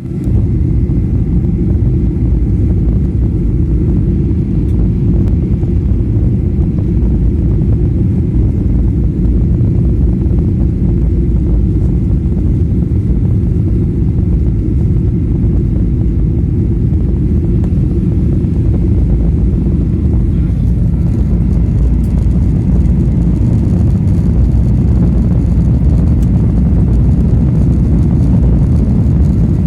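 Steady low rumble of a Boeing 737-800 in flight, engine and airflow noise heard from inside the passenger cabin, growing a little brighter about two-thirds of the way in.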